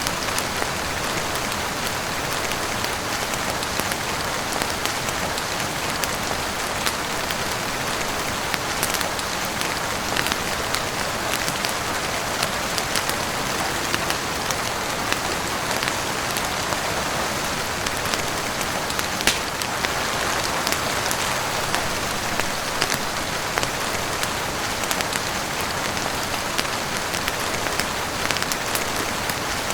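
Heavy rain falling on a roof and windows: a steady rush with scattered sharp drop ticks. A fireplace crackle may be mixed in faintly underneath.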